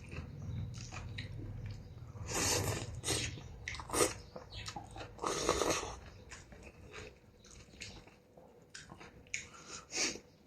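A person eating noodle soup, chewing and biting with irregular clicks of the mouth. Several louder noisy bursts come in between, about a second or two apart. A low hum underneath stops near the end.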